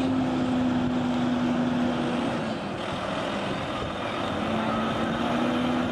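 Large truck's engine running as it passes, a steady low drone that drops away about two seconds in and comes back about four seconds in, over general outdoor noise.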